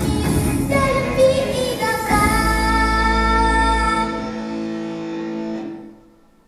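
A song with a singer over backing music, reaching its end: a final chord is held, then fades away over the last couple of seconds.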